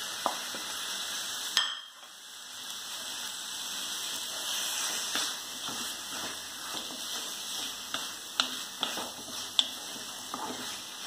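Chicken pieces in masala sizzling in a metal kadai while a wooden spatula stirs and scrapes them. Sharp taps of the spatula on the pan come several times in the second half.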